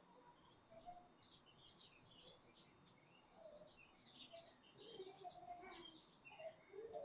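Faint birds chirping: many quick, overlapping high chirps, with a few lower short calls mixed in.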